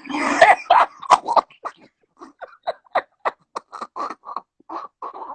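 A man laughing hard: a loud breathy outburst at the start, then a long run of short, wheezing laugh pulses, about three or four a second.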